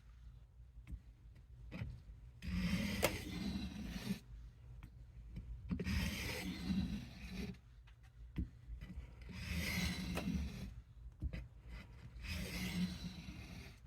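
A knife blade being stroked along a soft Arkansas sharpening stone, steel scraping on stone. The sound comes in about four rasping bursts a few seconds apart, as the second side of the edge is sharpened.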